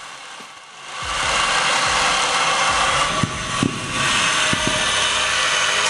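A stand-mounted power saw running, coming up loud about a second in and then running steadily, with a few brief dips in level, as if cutting.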